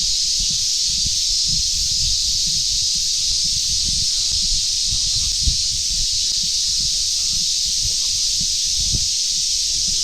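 A steady chorus of summer cicadas, a loud, unbroken high hiss, with irregular low thumps of footsteps walking underneath.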